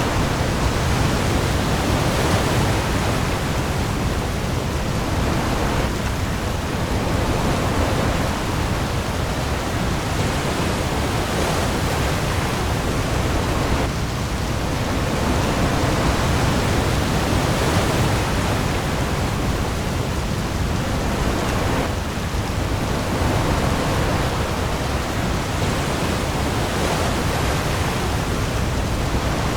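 Heavy rain falling on the open sea with waves: a steady, dense hiss with a low rumble underneath.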